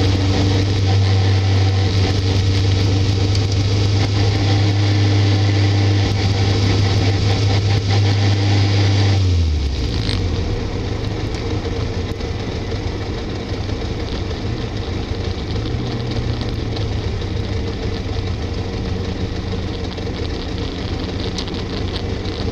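Caterham Seven's engine running at a steady pitch, then its note falls and gets quieter about nine seconds in as the revs come down. It carries on steadily at the lower revs.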